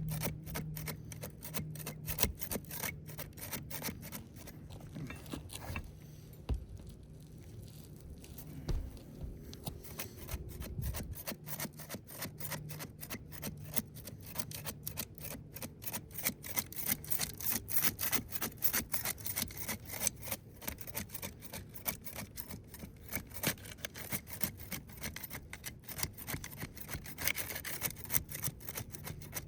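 Hand tools scraping and prying under glued-down asphalt composition shingles to break their sealant bond: a continuous run of short, irregular scraping and rasping strokes as the shingles are worked loose, shedding granules.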